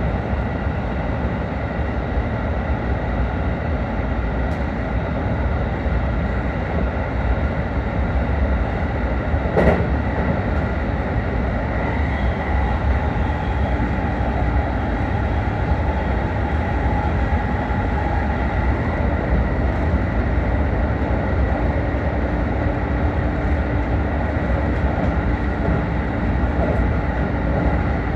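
JR 313 series electric multiple unit running along the line: a steady rolling rumble with a faint whine, and a single sharp knock about ten seconds in.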